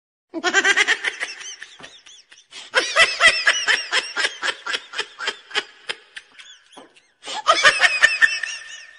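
Laughter in three bursts, each a quick run of ha-ha pulses, with dead silence between the bursts and no train noise behind them.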